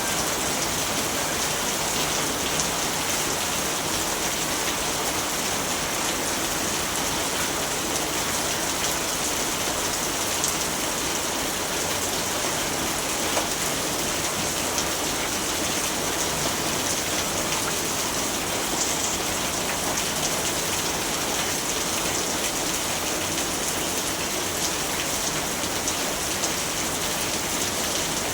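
Steady rain falling and pattering on surfaces, an even hiss with occasional louder drops.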